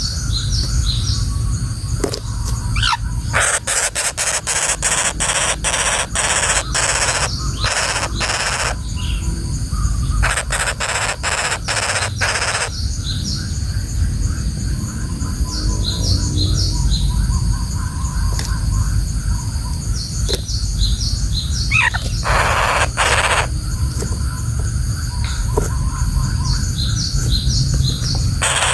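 Woodpecker, a common flameback, giving bursts of rapid, harsh rattling calls three times, with other birds chirping between the bursts and a steady low rumble underneath.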